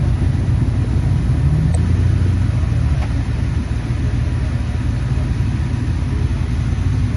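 Car being driven, its engine and road noise making a steady low rumble, with a slight swell about one and a half seconds in.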